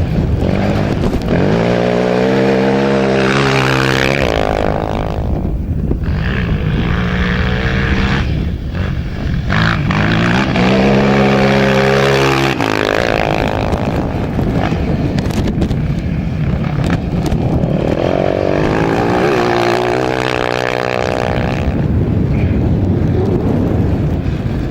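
Small off-road racing engines accelerating hard three times, each run climbing in pitch through the gears with breaks at the shifts. Engine noise carries on in between.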